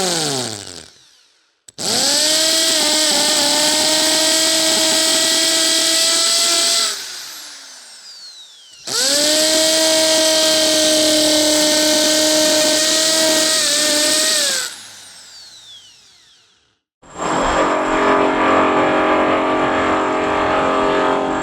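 A power tool's electric motor spins up, runs steadily for about five seconds and winds down as it stops, twice. This is followed by a different steady machine sound, with several held tones, lasting about four seconds.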